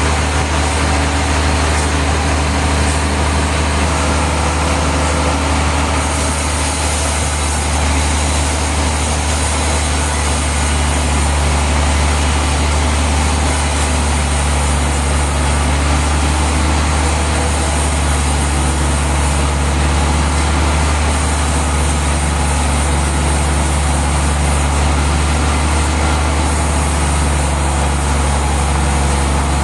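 Heavy sawmill machinery running steadily with a deep, constant hum and a dense mechanical noise, with no change in pace.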